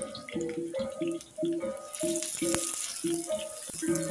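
Garlic, shallots, ginger and lemongrass sizzling in hot oil in a wok, the sizzle growing louder from about halfway. A single sharp tap about halfway through, of the spatula against the wok. Background music with a repeating rhythmic melody plays throughout.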